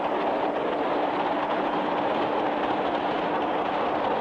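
Sound effect of a trolley car rolling along the rails: a steady rumbling run with a low hum held underneath.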